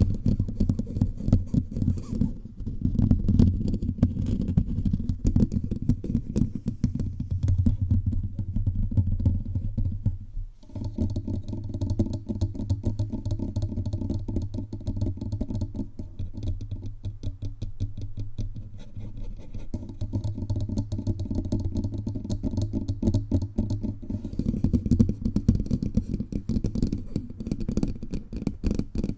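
Fingertips tapping rapidly all over a bare microphone's body. The taps come as a dense, quick patter with a heavy low thud. They pause briefly about ten and a half seconds in.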